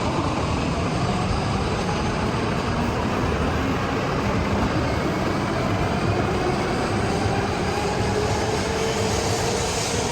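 Train running on the rails: a steady rumble of wheels and track with faint whines that slowly rise and fall in pitch.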